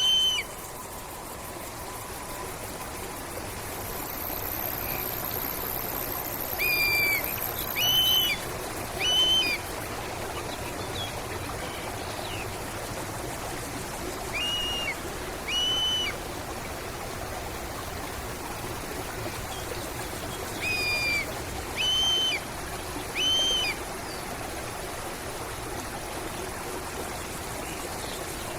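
A stream running steadily, with a bird repeating a short, arched call in groups of two or three about a second apart.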